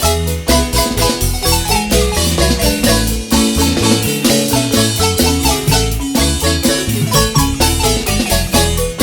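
Marimba band playing an upbeat instrumental: fast, rhythmic mallet notes on the marimba over a deep, moving bass line.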